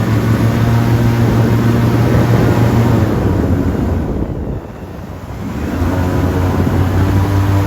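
Airboat engine and propeller running loud and steady. About halfway through, the engine eases off for a second or two and then builds back up.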